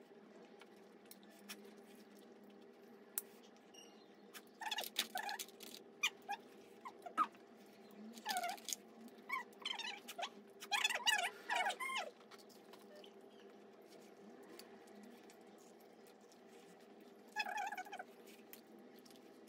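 Close-up eating sounds of people chewing fried chicken: short wet, squeaky chewing and lip-smacking noises in clusters, loudest in the middle, with one more brief burst near the end.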